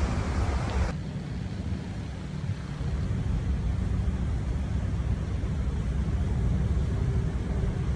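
A vehicle's engine idling with a steady low rumble; a brighter hiss over it drops away sharply about a second in.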